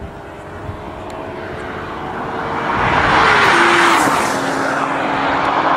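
A car speeding past at full throttle: the engine and tyre noise builds to a peak a few seconds in, and its engine note drops in pitch as the car goes by.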